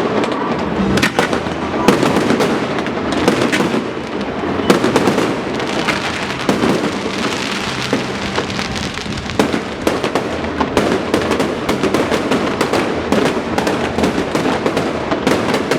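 Fireworks show barrage: many sharp cracks and bangs from bursting shells and crackle effects in quick succession, over a continuous rumbling din.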